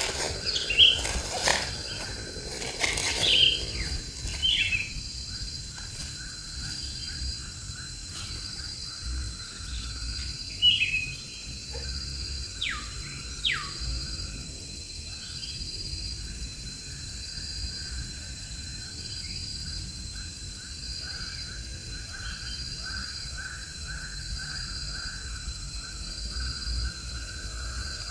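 Insects chirping in a steady, evenly pulsing chorus, with several short bird calls in the first half, including two quick downward whistles near the middle.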